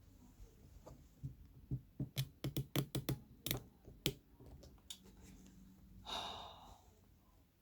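A quick run of sharp clicks and knocks from objects being handled, lasting about two seconds, then a short breathy rustle about six seconds in.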